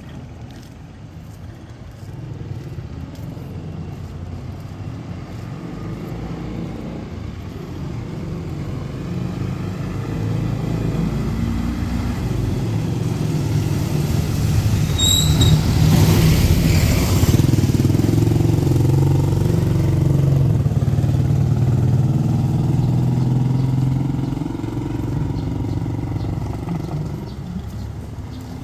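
A motor vehicle's engine approaching slowly, passing close about 16 seconds in with a hiss of tyres on the wet road, then fading away. A brief high squeak comes just before it passes.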